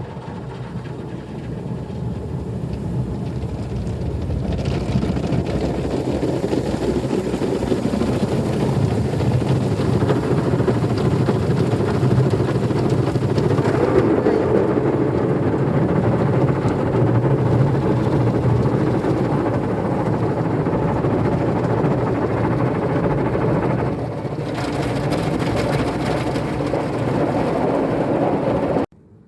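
Automatic car wash machine running its shampoo wash: motors humming under a steady rush of the mopping brushes and water working over the car. The noise builds over the first few seconds, shifts a little near the end, then cuts off suddenly.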